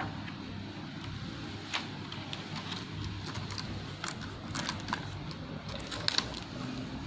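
Scattered light clicks and taps, a few at a time, over a steady low background hum.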